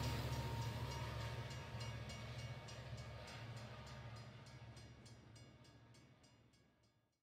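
A train running: a steady low drone with a fast, regular clicking of wheels over rail joints, fading out to silence about seven seconds in.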